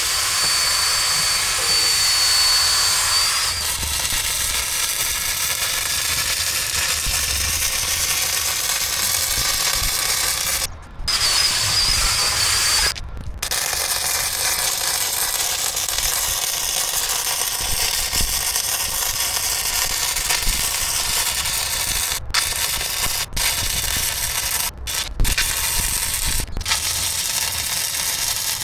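An angle grinder with a wire wheel scrubbing slag off a fresh flux-core weld bead, its high motor whine heard at the start and again about halfway through. After that comes a long steady crackling hiss with a few short stops near the end, typical of a 110V flux-core welder laying another bead on top.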